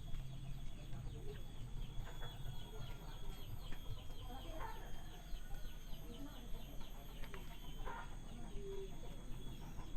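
Chickens clucking now and then, with a steady high tone underneath.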